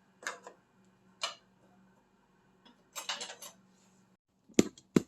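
Metal hand tools clinking and knocking: two separate clinks, a short rattling run of clicks about three seconds in, and two sharp metallic knocks near the end.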